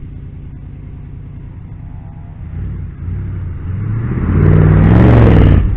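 1973 Ford F-250's engine idling, then revved up from about halfway through to a loud peak and dropping back sharply at the end. The engine runs cleanly after a complete cleaning of its fuel system, which had made it lose power.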